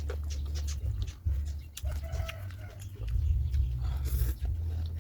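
A steady low rumble with scattered short clicks, and a brief animal call, such as a hen's cluck, about two seconds in.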